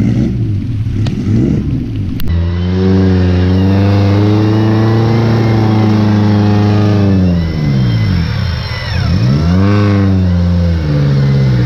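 Suzuki Jimny's four-cylinder engine revving hard as the 4x4 crawls through deep mud, held at high revs for several seconds. It then dips and picks up twice before settling to a lower, steady note.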